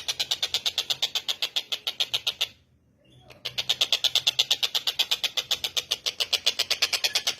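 Collared kingfisher (tengkek buto) calling in a rapid string of sharp, high repeated notes, about ten a second. The string breaks off about two and a half seconds in and starts again a second later.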